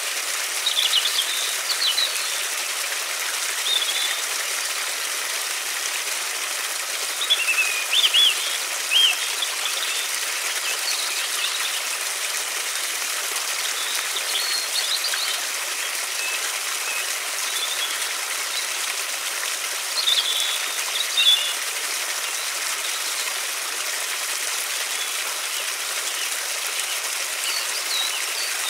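River water flowing steadily, with songbirds chirping in short, high bursts every few seconds, loudest around 8 and 21 seconds in.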